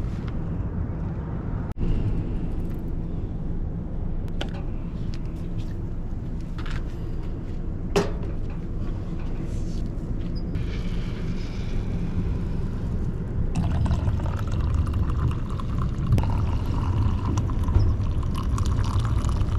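Liquid being poured, likely hot water or coffee into a cup, with a hissy splashing noise that starts about halfway through and grows fuller near the end, over a steady low rumble. A single sharp click about eight seconds in.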